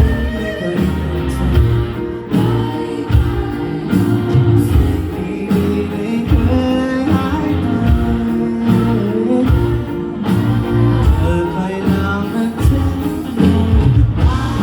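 Live pop-rock band with a singer performing a song: vocals over guitars, bass and drums, with a steady beat.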